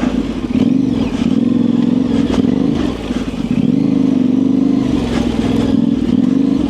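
Yamaha Tenere 700's parallel-twin engine, fitted with an aftermarket high exhaust, running at low revs, its pitch dipping and rising slightly a few times with small throttle changes.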